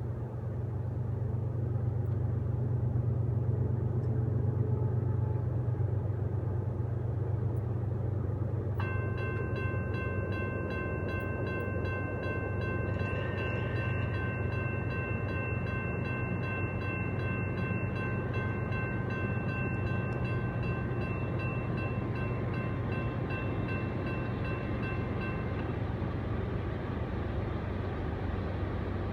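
CSX freight train with diesel locomotives passing with a steady low rumble. About nine seconds in, a multi-chime locomotive horn sounds a chord of several notes at once and holds it for roughly seventeen seconds before cutting off.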